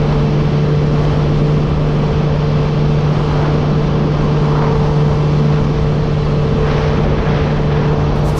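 Motorcycle engine running at a steady, raised speed just after being push-started, a constant unwavering drone.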